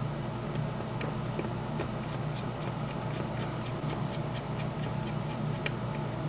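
Faint, scattered small clicks and ticks of a tiny screwdriver driving a small screw into a model locomotive, over a steady low background hum.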